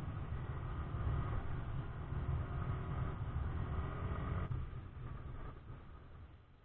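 SYM Joymax Z+ maxi-scooter engine running under a heavy wind rumble on the helmet microphone. About four and a half seconds in, the sound drops abruptly and then fades away.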